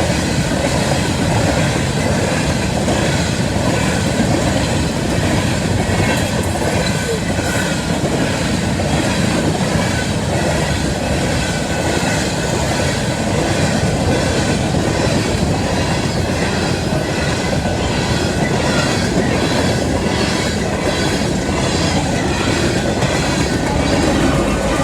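Empty coal cars of a long freight train rolling past at close range: a loud, steady rattle and rumble with a regular clickety-clack of wheels over rail joints.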